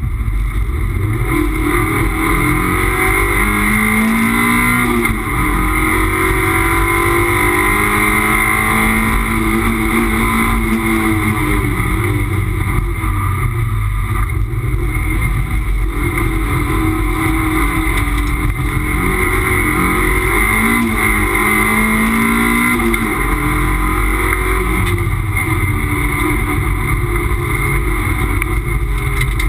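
Toyota MR2 race car's engine heard from inside the cabin at racing speed. Its pitch rises and falls again and again as the car accelerates, changes gear and slows for corners, over steady road and wind noise.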